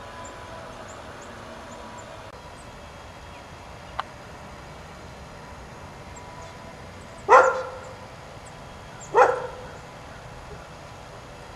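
Two loud, harsh animal calls about two seconds apart, over a steady outdoor background with faint high chirps; a single sharp click about four seconds in.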